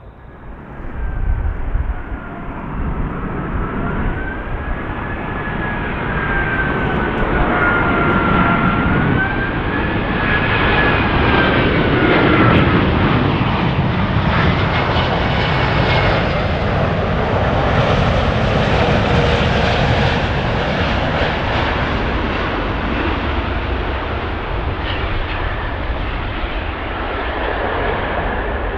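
A large jet airliner's engines on the landing approach: a high whine that bends up and down, with a rumble that builds to its loudest midway through and then eases slightly.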